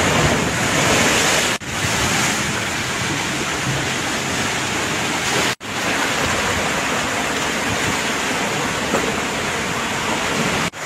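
Storm-driven sea surf washing ashore with wind, a loud steady rush of noise that cuts out for an instant twice.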